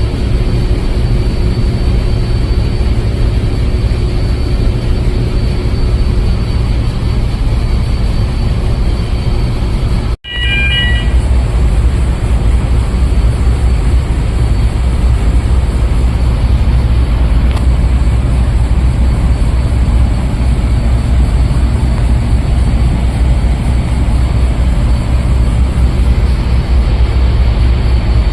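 Loud, steady ship machinery noise around a cruise ship's exhaust-gas scrubber tower, heaviest in the low rumble. It drops out briefly about ten seconds in, followed by a short high-pitched chirp.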